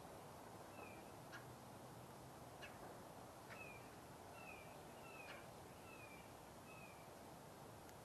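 A bird calling with short falling notes, about six of them repeated less than a second apart, with a few faint sharp clicks, over a steady faint hiss.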